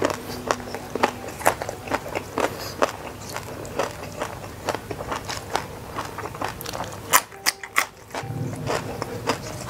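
Crisp, crunchy chewing and biting of raw vegetables, mainly raw winged bean pods, close to the microphone, with sharp irregular crunches about once or twice a second. A few louder crisp bites come around seven seconds in, and a low hum sets in near the end.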